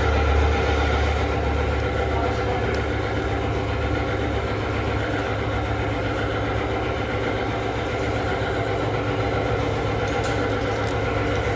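Honda CB150 motorcycle's single-cylinder engine idling steadily, slightly louder in the first second.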